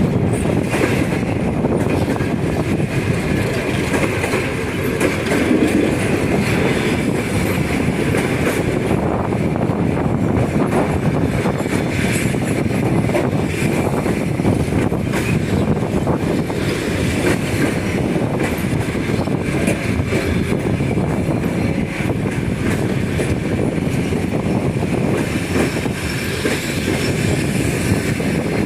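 Passenger train rolling past on the rails: a steady, loud rumble of wheels and coaches.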